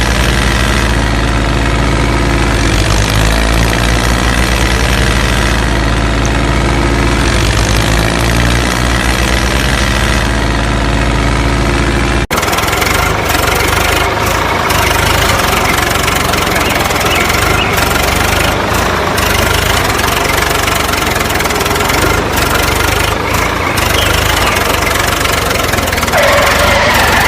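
Engine running steadily. About twelve seconds in, the sound cuts abruptly to a rougher, noisier engine sound that carries on to the end.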